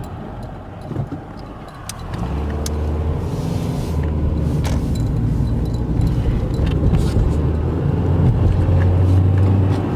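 Car driving along the road, heard from inside the cabin: a steady low rumble of road and engine noise that grows louder about two seconds in.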